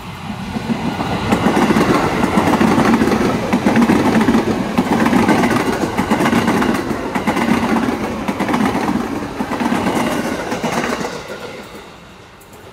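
A train passing close by, its wheels running over the rails. It swells over the first second or two, holds for about nine seconds and then fades away.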